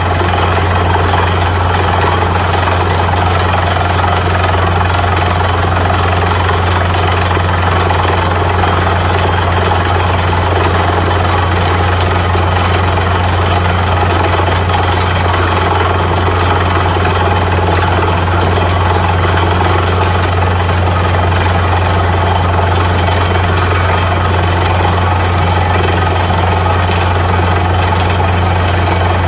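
Borewell drilling rig running steadily: a loud, unbroken low drone with a dense hiss above it.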